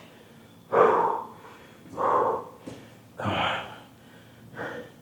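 A man's hard, forceful breaths through a set of lifts, four sharp exhalations about one every second and a bit, with quiet between them.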